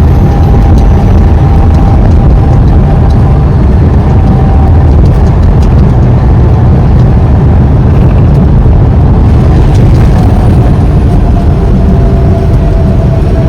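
Semi-truck running with a loud, steady low rumble of engine and road noise.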